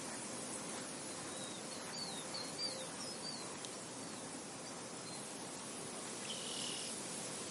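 Steady wind rushing across an open field, with small birds chirping: a run of quick, high chirps about two seconds in and another short call near the end.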